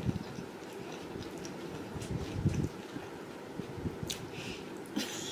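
A person chewing a mouthful of hard-shell taco close to the microphone: soft, wet mouth sounds with scattered small clicks.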